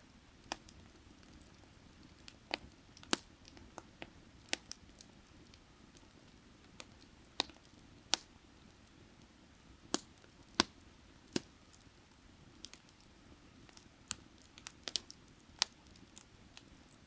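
Burning firewood crackling: irregular sharp pops and snaps, one every second or so, a few in quick clusters, over a low steady rush.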